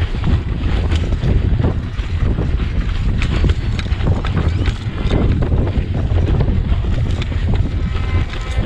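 Wind buffeting the microphone of a rider's camera while cycling, a loud steady low rumble with frequent short knocks and rattles.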